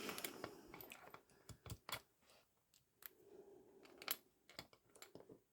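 Faint, irregular clicks and light taps of hand tools and small metal parts being handled during motorcycle engine reassembly.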